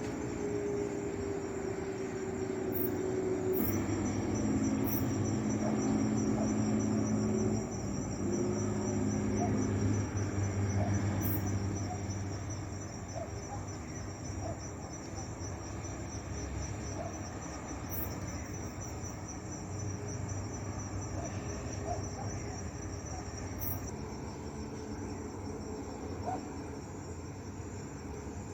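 A cricket trilling in a fast, even pulse, starting a few seconds in and stopping near the end. Under it, a low steady hum of several held tones is loudest in the first part and fades out about halfway, with faint scattered ticks.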